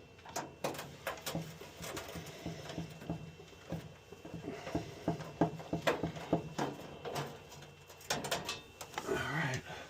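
Irregular metal clicks, taps and clatter from screws, a hand tool and the sheet-metal casing of a boiler being taken apart, over a low hum.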